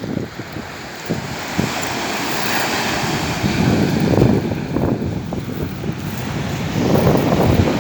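Sea waves breaking and washing in, swelling about two to four seconds in, with wind buffeting the microphone in heavy gusts.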